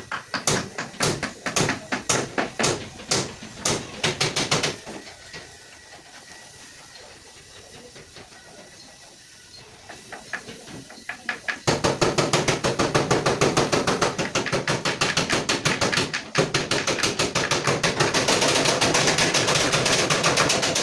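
Light hammer tapping: sharp taps about three or four a second for a few seconds, a short lull, then a fast, continuous run of rapid taps from about twelve seconds in.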